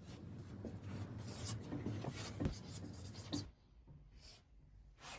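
Scratchy rubbing and rustling, like something being handled or scraped across a surface, lasting about three and a half seconds before dropping to faint occasional sounds.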